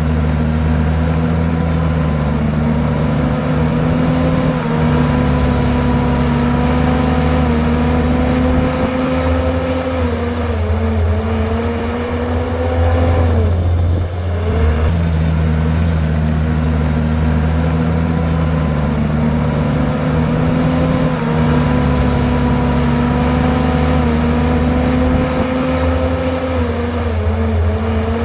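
Komatsu bulldozer's diesel engine working, its pitch mostly steady with a few brief dips. About 13 seconds in it sags deeply, then picks back up.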